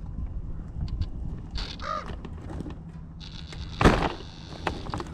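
Crows cawing over a steady low rumble, with a loud sharp thump about four seconds in.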